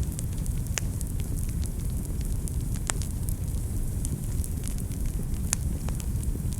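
Wood fire burning in a fireplace: a steady low rumble of the flames with irregular sharp crackles and pops, the loudest pops about a second in, near the middle and near the end.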